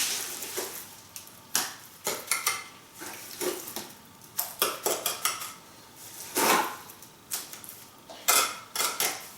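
Trowel scraping and spreading wet sand-and-cement mortar onto a flat river stone slab, a series of irregular short scrapes and clinks.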